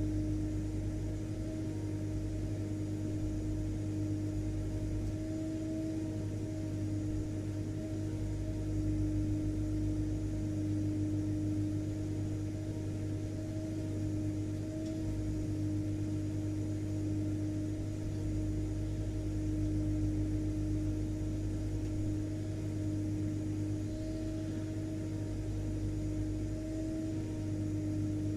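Vacuum cleaner motor running steadily: an even, unbroken hum with a constant whine.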